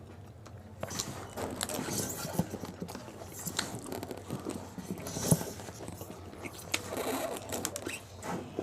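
Close-up eating sounds: crisp pani puri shells crunching and wet chewing, starting about a second in, with one loud crunch about five seconds in.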